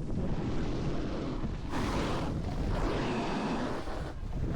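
Rushing wind on the microphone mixed with the scrape of snowboard edges over snow during a run, rising and easing in several surges.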